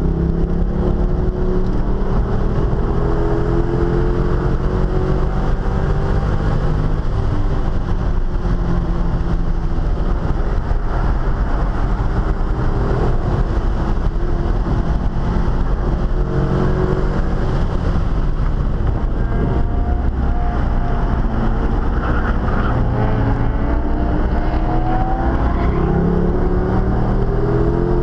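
Chevrolet C5 Corvette V8 with an aftermarket cam, heard from inside the cabin under hard track driving. It climbs in pitch under acceleration near the start and again several times in the last third, with road and wind noise beneath.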